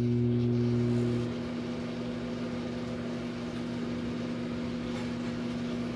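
Philco microwave oven running with a steady electrical hum. The hum drops in level about a second in and then carries on steadily. The oven is working again after its capacitor was replaced, the magnetron heating.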